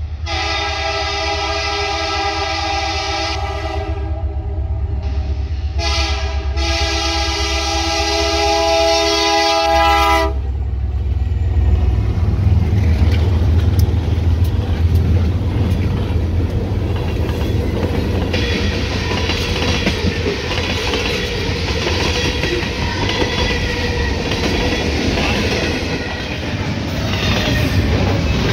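A diesel-hauled Norfolk Southern intermodal freight train sounding its air horn in two blasts, about three seconds then about four seconds long, with a two-second gap. Then the locomotives pass with a low engine rumble, and the cars roll by with wheels clattering over the rail joints.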